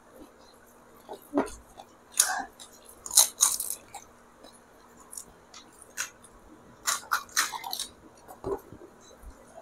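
Pani puri being bitten and chewed: crisp puris crunching in short, irregular bursts.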